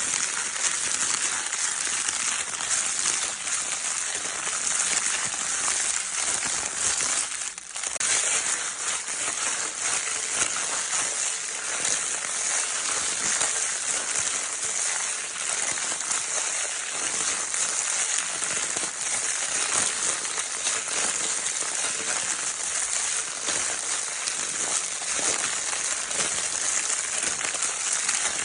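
Crinkle paper baby toy being crinkled continuously, a dense crackling rustle with a brief drop about seven and a half seconds in.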